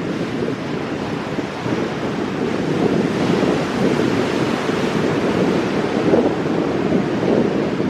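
Ocean surf breaking on rocks as a continuous wash that swells louder a few seconds in, with wind rumbling on the microphone.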